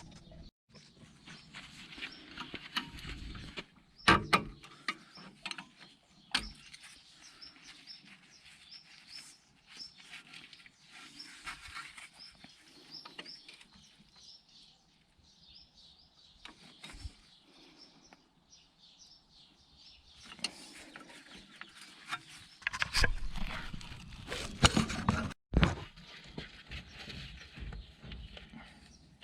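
Intermittent knocking and clinking of metal tools and parts during work on a car's front wheel, loudest about four seconds in and again in a cluster near the end, with birds chirping in the background.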